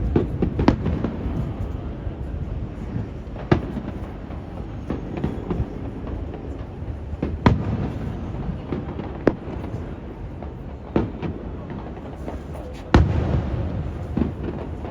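Aerial fireworks bursting overhead, a string of sharp bangs a second or two apart, the loudest near the middle and near the end. A steady low rumble of wind on the microphone runs underneath.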